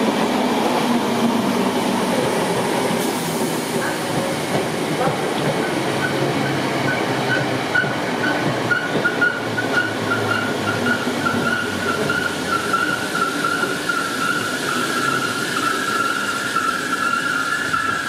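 Electric multiple-unit commuter train rolling past, with steady wheel-on-rail noise. A high, steady wheel squeal comes in about a third of the way through and grows louder toward the end.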